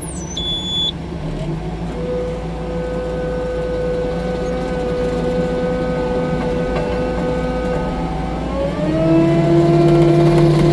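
Six-ton tracked skid steer's diesel engine running under work with a steady whine; about nine seconds in the whine rises in pitch and the machine gets louder as it speeds up.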